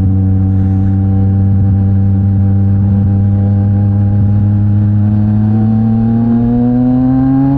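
Yamaha MT-09 SP's 890 cc inline-three engine through a Mivv X-M50 exhaust, running at a steady cruising note. About five seconds in its pitch begins to rise slowly as the revs build.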